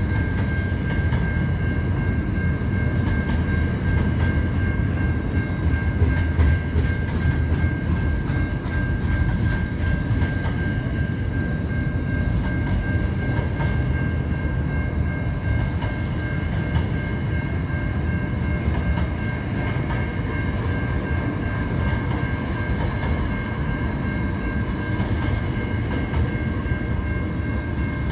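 Train wagons rolling past at speed with a steady low rumble and a constant high-pitched whine over it. A run of quick, even clicks from the wheels comes a few seconds in.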